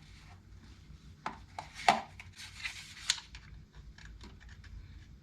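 Small clicks and scraping of a portable tire inflator's hose connector being fitted onto a motorcycle tire's valve stem: a few sharp clicks, the loudest a little under two seconds in, with light rubbing between them.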